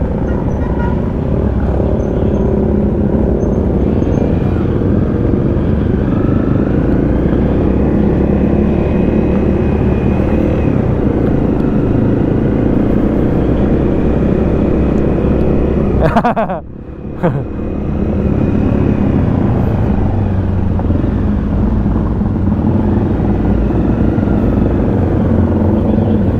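Honda CRF250 Rally's single-cylinder engine running at low road speed under a steady rush of wind on the helmet-mounted microphone. About two-thirds of the way through, the sound drops out briefly and then returns.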